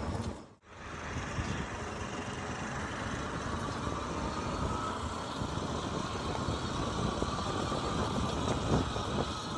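E-bike riding noise: steady road and wind rumble with a faint whine slowly rising in pitch. The sound cuts out briefly about half a second in.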